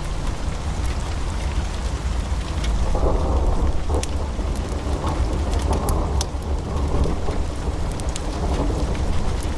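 Wood fire burning in a fireplace: a steady low rumble of flames with scattered sharp pops and crackles from the logs, thickening into denser crackling twice in the middle.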